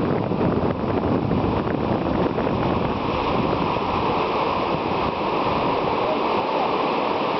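Steady rush of whitewater in river rapids, with a low rumble that fades after about four seconds.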